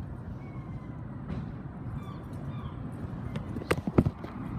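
Harley-Davidson Cross Bones' 1584cc V-twin engine idling with a steady low rumble. A few sharp knocks come about three and a half to four seconds in.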